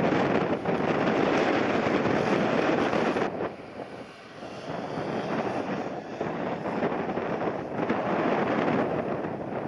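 Jet airliner engines heard through strong, gusty wind buffeting the microphone. The noise dips for a second or two about three seconds in, then builds again.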